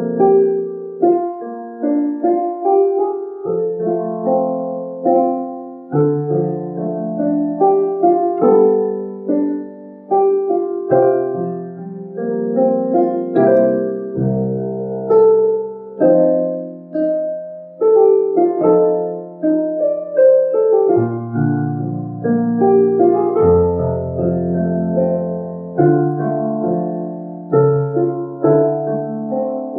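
Solo piano playing a slow hymn, with chords struck about every second and notes left ringing.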